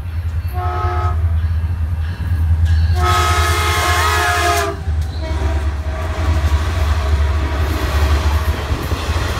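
Caltrain express passing, its MP36 diesel locomotive's horn sounding a short blast about half a second in and a longer blast about three seconds in, over the steady low rumble of the train.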